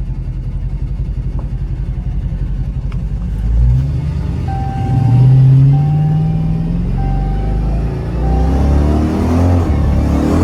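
Dodge Charger Hellcat's supercharged 6.2-litre V8 running loud through catless mid pipes. A steady low rumble gives way, about three and a half seconds in, to the engine revving up and rising in pitch as the car accelerates. A chime beeps four times about a second apart during the pull. The owner takes the exhaust note as showing an exhaust leak.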